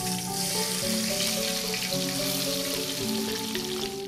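Pieces of white tofu sizzling as they fry in hot oil in a steel wok, a dense steady hiss that stops near the end, over background music of plucked or mallet-like notes.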